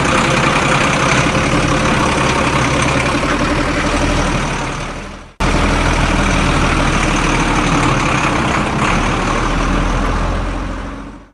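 Heavy vehicle engine running steadily, heard as two stretches: the first fades out about five seconds in and cuts off, then it starts again at full level and fades out near the end.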